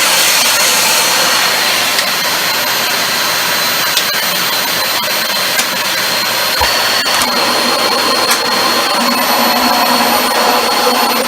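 Dyson DC25 upright vacuum cleaner running steadily on carpet: a rushing suction noise with a steady high whine, and scattered short ticks as it picks up pieces of shredded paper.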